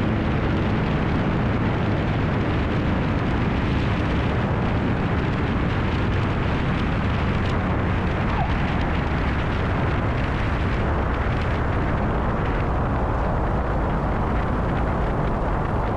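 Cessna 180's six-cylinder piston engine and propeller running steadily, heard under a heavy rush of airflow noise in flight.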